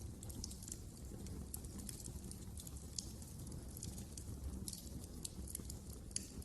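Wood fire crackling in a fireplace: irregular sharp pops and snaps over a low steady rumble of the flames, with a louder pop about halfway through and another near the end.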